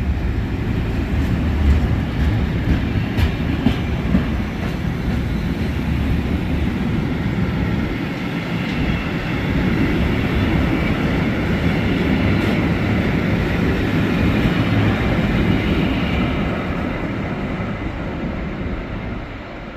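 Freight train of empty china clay wagons hauled by a Class 66 diesel locomotive, running through the station with wheels clicking over rail joints. The sound fades away near the end.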